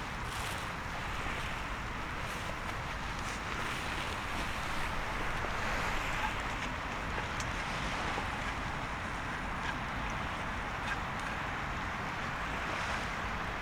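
Steady rushing of wind and surf on the shore, with a few faint scattered ticks.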